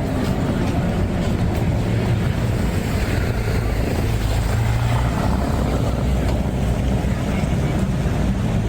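A motor vehicle's engine running close by: a steady low rumble with a faint hum.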